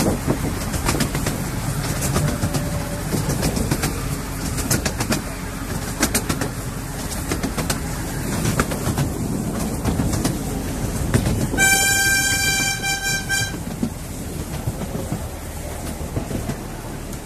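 Miniature railway train running along the track, with rapid clicks from the wheels over the rails. About twelve seconds in, the locomotive sounds one steady high signal note lasting nearly two seconds.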